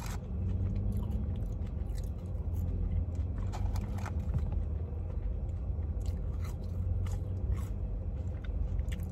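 A person chewing mouthfuls of fresh McDonald's french fries, with soft scattered crunches and mouth sounds, over a steady low hum.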